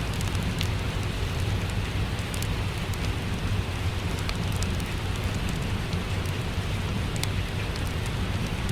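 Steady rain with the scattered sharp pops of a crackling wood fire over a low, constant rumble.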